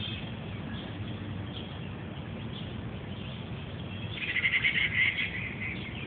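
A bird calling: a faint chirp at the start, then about four seconds in a rapid run of high chirps lasting about a second, over a steady low background rumble.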